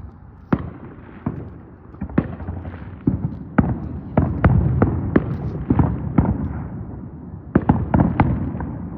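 Consumer firework going off: a string of sharp pops and cracks at irregular intervals over a steady crackle, thickest and loudest in the middle, pausing briefly and then bursting into a quick cluster of cracks near the end.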